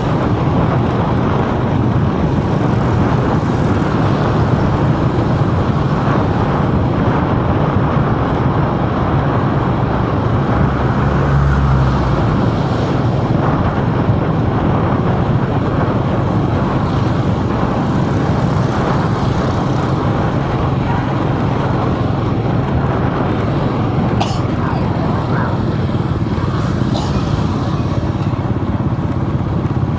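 Steady low rumble of road and engine noise from a vehicle driving through city traffic.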